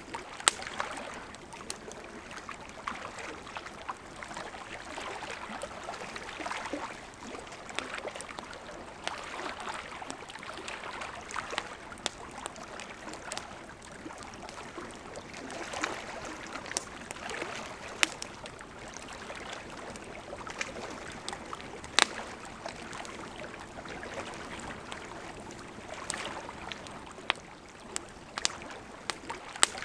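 Wood fire burning with a steady hiss and irregular sharp crackles and pops, a few of them louder.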